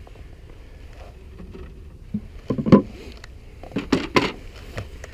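Handling noise: a few seconds of faint low rumble, then several short knocks and rubs in two clusters about halfway through, the sharpest a little past the middle.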